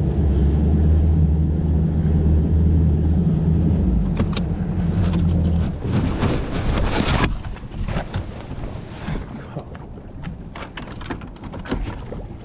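Bass boat's outboard motor running at idle speed, a steady low drone that stops about six seconds in. A brief rushing noise follows and cuts off suddenly, and after it only light clicks and knocks are heard.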